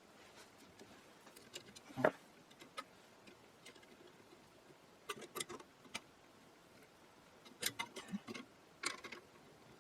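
Scattered light clicks and taps of small metal hardware and hand tools being handled while parts are fitted into an antique radio set. The sharpest knock comes about two seconds in, with small clusters of clicks a few seconds later and again near the end.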